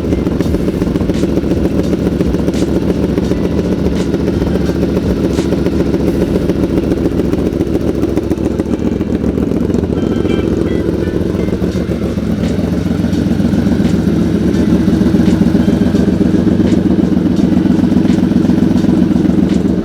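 Yamaha Vmax's V4 engine idling while it warms up from a cold start. It runs as a steady throb that grows slightly louder about two-thirds of the way through.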